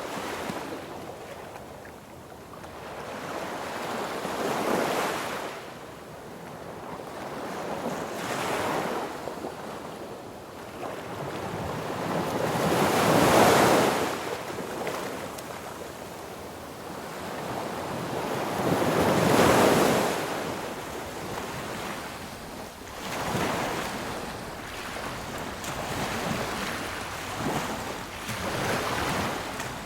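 Sea waves breaking on a beach, the surf swelling and falling back every few seconds, with the two biggest breakers about halfway through and about two-thirds of the way through.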